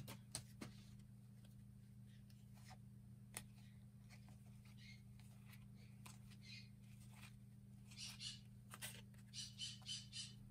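Faint bird calls: short high chirps a few seconds in, then a denser run near the end, over a low steady hum and a few soft clicks.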